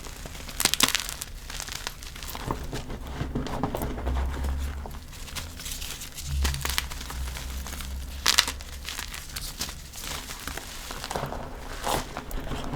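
Gym chalk blocks crunching and crumbling as they are crushed, in irregular crisp crackles, with sharper snaps a little under a second in, around eight seconds in, and near the end.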